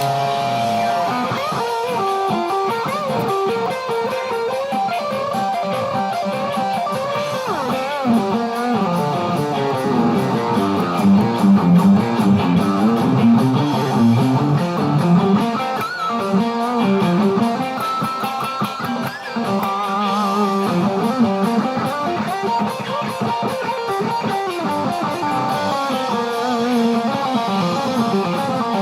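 Guitar improvising a lead line: a continuous run of notes with many bent, sliding pitches.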